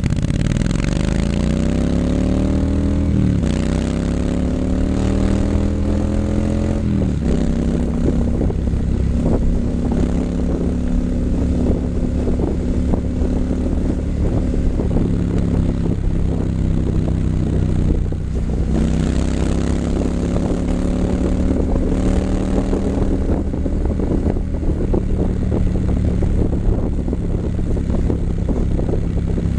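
2019 Triumph Scrambler 900's parallel-twin engine through an H-pipe and Vance & Hines exhaust, accelerating hard with upshifts at about three and seven seconds in. It then holds a steady cruise, drops briefly near eighteen seconds, and pulls up again to a steady drone.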